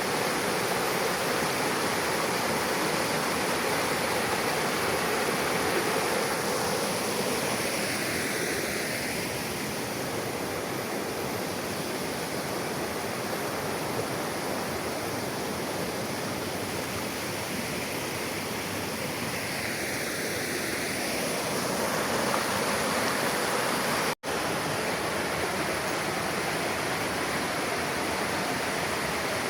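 Shallow river water flowing and rushing steadily over its bed, easing slightly in the middle. The sound cuts out for an instant about 24 seconds in.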